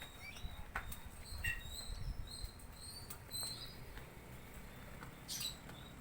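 Songbird giving short, high, squeaky chirps in scattered bursts, with a few sharp clicks.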